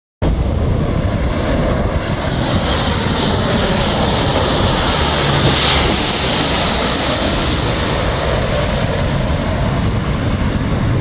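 Engine noise of a firefighting water-bomber aircraft in flight, a steady drone that grows a little louder about halfway through as the plane passes.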